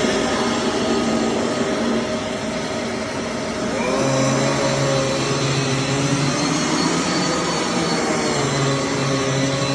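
Maytag M1200 vacuum cleaner running steadily, its motor tone shifting and wavering from about four seconds in.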